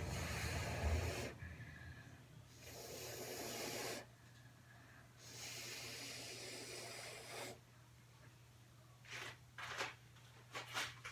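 Blasts of blowing air hissing on and off: three bursts of one to two seconds each, then a few short puffs near the end, over a steady low hum.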